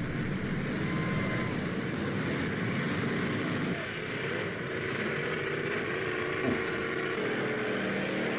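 Demolition derby cars' engines running and revving together, a steady mechanical din with no sharp crash standing out.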